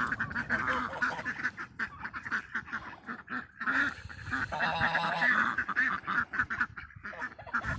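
A flock of farmyard waterfowl calling over one another in a rapid run of short honks and quacks, with one longer call about five seconds in.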